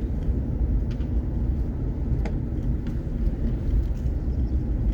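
Steady low rumble of engine and road noise inside a moving vehicle's cabin, with a few faint clicks.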